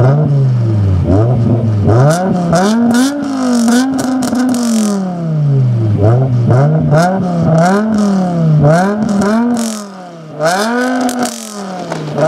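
BMW M5 E60's V10 engine through a Botter aftermarket exhaust, revved hard about eight times in quick succession, each rev rising and falling in pitch, with sharp crackles from the exhaust on several of them. It drops away briefly near the end before one last rev.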